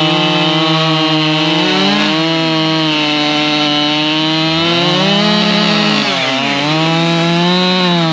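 Husqvarna two-stroke chainsaw running hard while cutting a log, its engine pitch sagging and recovering several times as the chain loads in the wood.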